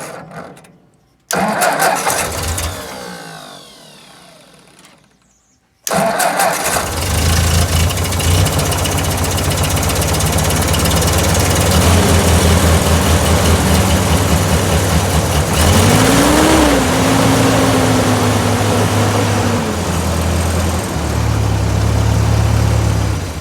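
Cold start of a 1955 Ford 660 tractor's four-cylinder gasoline engine: two short bursts of cranking that fade away, then the engine catches about six seconds in and keeps running. Its speed rises briefly and falls back about two-thirds of the way through.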